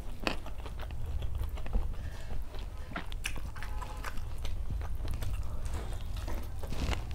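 Close-miked eating sounds: chewing, biting and wet mouth smacks in short irregular bursts over a steady low hum.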